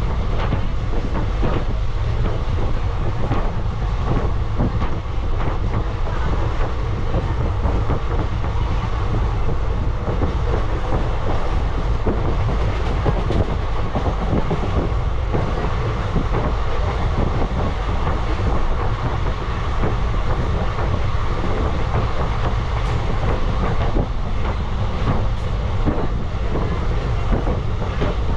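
Passenger train running along the line, heard from on board: a steady rumble of wheels on rail with occasional clicks.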